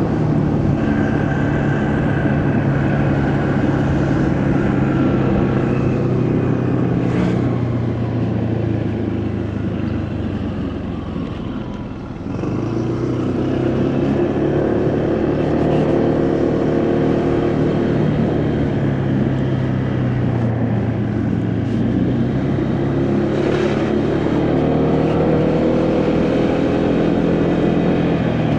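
Motorcycle engine running under way, its note rising and falling with the throttle as the bike speeds up and eases off. It drops low about halfway through before picking up again, with wind and road noise underneath.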